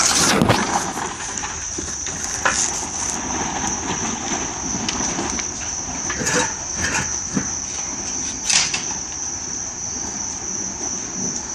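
A steady, high-pitched chorus of insects trilling, with a few brief knocks and rustles close to the microphone.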